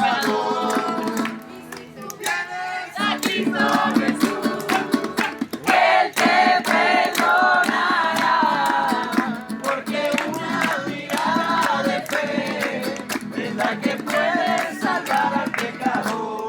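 A group singing a worship song together in Spanish to strummed acoustic guitar, with a steady beat of strums or claps.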